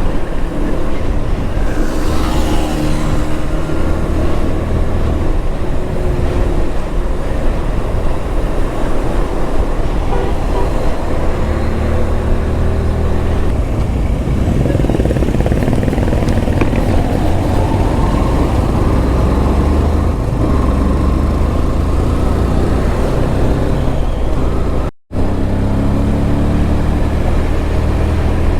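Motorcycle engine running through a ride in heavy road traffic, its pitch rising and falling with the throttle, with other vehicles around. The sound cuts out for a moment near the end.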